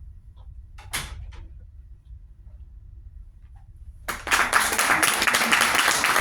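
A short knock about a second in, with a few faint clicks and shuffles. About four seconds in, an audience bursts into applause that keeps going.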